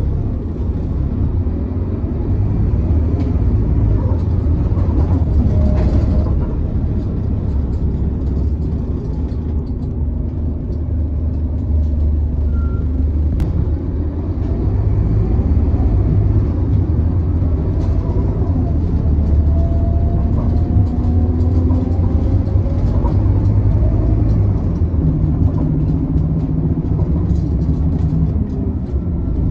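Scania K280UB bus running steadily with a low engine rumble, and a whine that slowly rises in pitch a little past halfway through.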